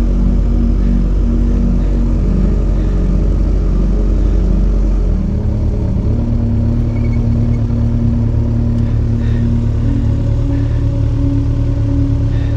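Motorcycle engine running steadily, its note changing about five seconds in.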